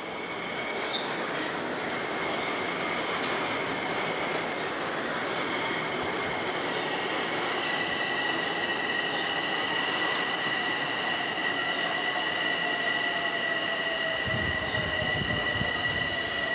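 Long Island Rail Road electric train pulling into the station: a steady rolling rush, with high steady squealing tones that grow stronger about halfway through and a lower whine that slowly falls in pitch as the train slows. Some low rumbling comes in near the end.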